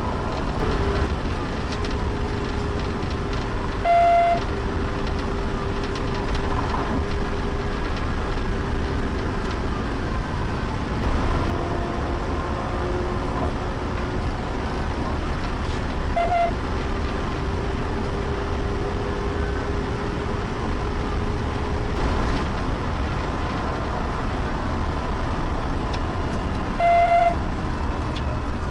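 Police patrol car driving at speed in pursuit: steady road and engine noise, broken three times by a short, loud horn blast, about 4 s, 16 s and 27 s in.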